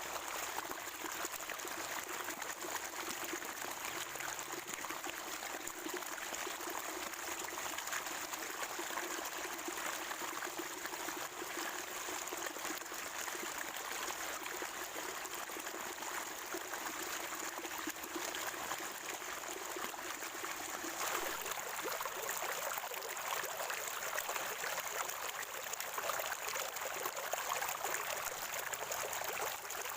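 Spring water trickling and gurgling steadily over stones.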